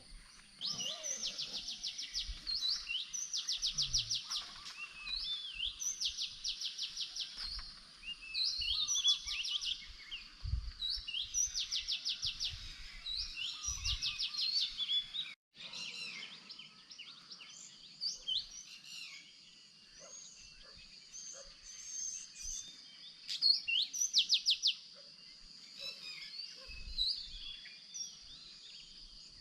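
Wild songbirds singing, one repeating a short rapid trilled phrase every second or two, over a thin steady high whine. After a sudden break about halfway, the song turns to scattered varied chirps with one more trill near the end.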